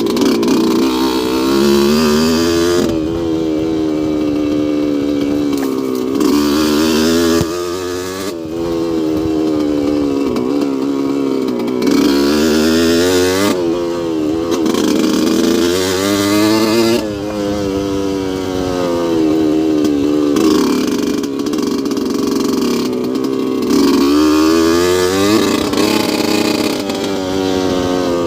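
2002 Yamaha YZ125's single-cylinder two-stroke engine running under throttle, its pitch climbing and falling back over and over, every few seconds.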